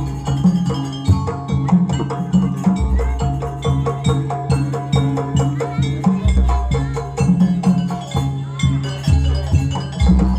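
Jaranan gamelan music: rapidly struck tuned metal percussion and drums over a steady drone, with a deep gong-like stroke swelling up about every three and a half seconds.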